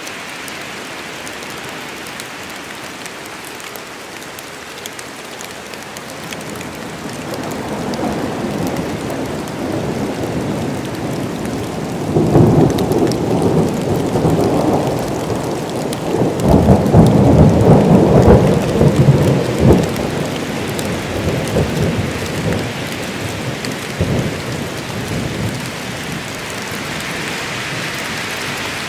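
Steady rain falling, with a long roll of thunder that builds from about seven seconds in, crackles and rumbles loudest through the middle, and dies away well before the end.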